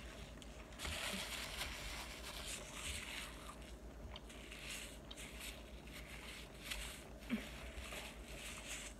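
A mouthful of samosa being chewed close to the microphone with the mouth closed: soft and irregular, with a short click about seven seconds in.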